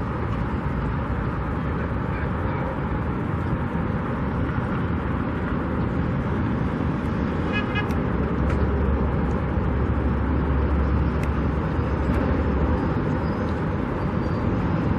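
Steady road traffic and street noise, with a deeper low rumble swelling from about eight to thirteen seconds in. A brief run of high chirps sounds about halfway through.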